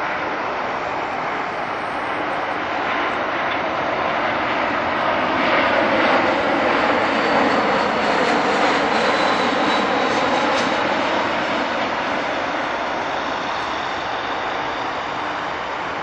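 Jet airliner's engines passing by: a broad rushing noise that swells to its loudest about halfway and then eases off, with a faint whine that drops in pitch as the aircraft goes past.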